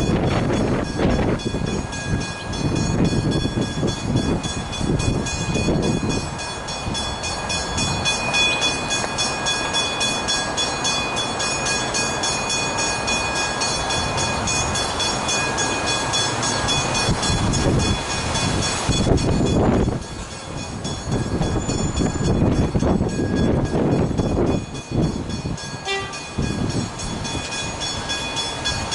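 Level crossing warning bells ringing in a fast, steady repeat, over the rumble and wheel noise of a train passing over the crossing.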